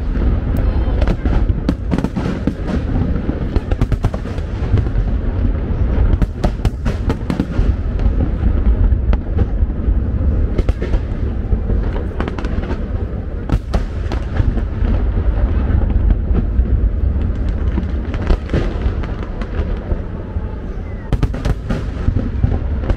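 Fireworks display: aerial shells bursting one after another, many sharp cracks and booms over a constant deep rumble.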